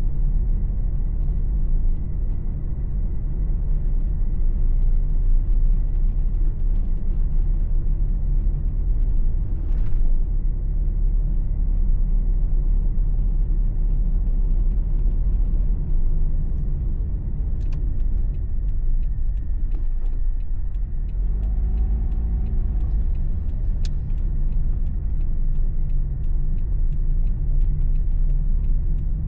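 Steady low rumble of a car's engine and road noise heard from inside the cabin while driving. A short humming tone bends up and down about three-quarters of the way through, and faint light ticks come and go near the end.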